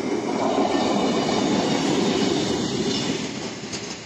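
A diesel passenger railcar passing close by over a level crossing: wheel and running noise swells quickly, holds for about three seconds, then fades as it moves away.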